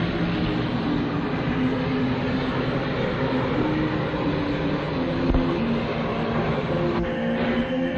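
Train running, a steady noisy rush, with a tune played over it and a couple of low knocks.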